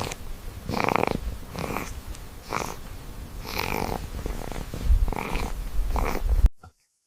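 A pet dog making a run of short, breathy sounds, about one a second, which cut off abruptly near the end.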